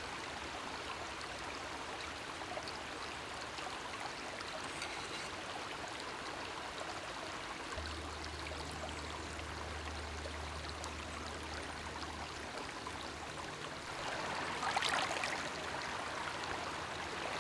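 Steady rushing outdoor noise with faint scattered ticks, a low hum for a few seconds in the middle, and a louder swell of noise about fourteen seconds in.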